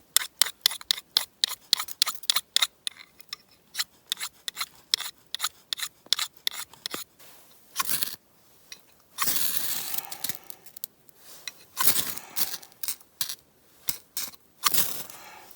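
Ferro rod struck over and over above damp birch-bark tinder: quick sharp scrapes, about three a second, then a few longer, slower scrapes in the second half. The sparks are not catching the wet tinder.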